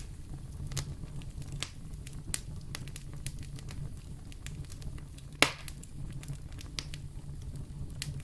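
Wood fire burning in a fireplace: a steady low rumble under scattered crackles, with one louder pop about five and a half seconds in.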